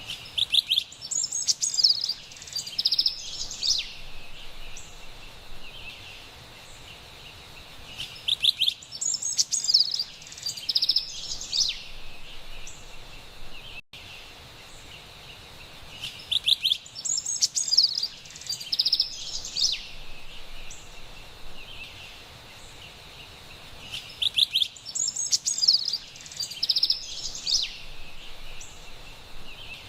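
Carolina wren singing in four bursts of song, each a few seconds long and about eight seconds apart, over a steady faint background hiss.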